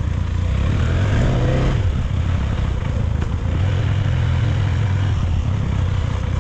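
Motorcycle engine running steadily on the move, a low engine note under a constant hiss of wind and road noise.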